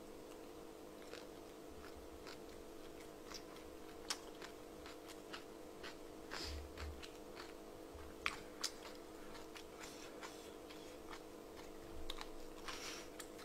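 Faint close-miked chewing of a mouthful of dumpling, with soft wet mouth clicks and smacks scattered through, over a steady low hum.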